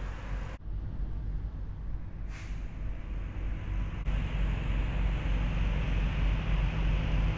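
Steady low rumble of a car on the highway, with a brief high hiss about two and a half seconds in.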